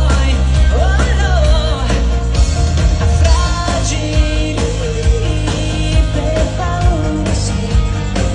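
Live pop music: a woman singing the melody over a full band with bass and a steady drum beat.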